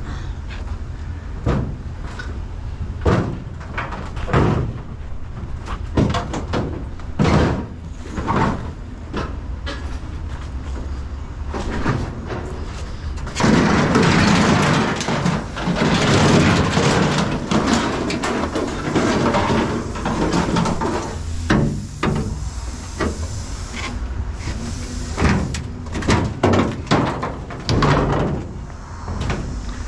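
Scrap metal car parts being handled and tossed: repeated sharp clanks and bangs, with a longer stretch of rattling and scraping metal about halfway through, over a low steady hum.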